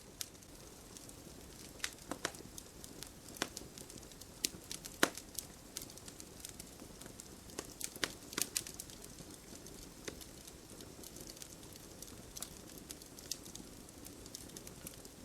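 Wood campfire burning: irregular sharp crackles and pops over a low steady hiss, with the loudest pop about five seconds in.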